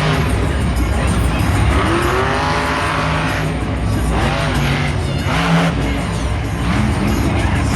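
Monster truck's big V8 revving hard and unevenly, its pitch swinging up and down over and over above a constant deep rumble.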